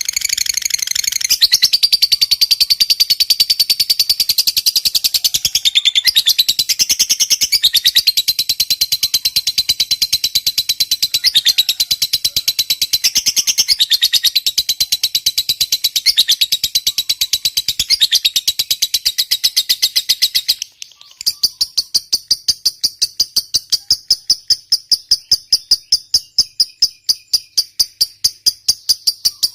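Lovebird's long, rapid, high chattering trill ("ngekek panjang"), the sustained chatter of a singing lovebird. It breaks off sharply about two-thirds of the way through, and an evenly pulsed high chirping follows at roughly three pulses a second.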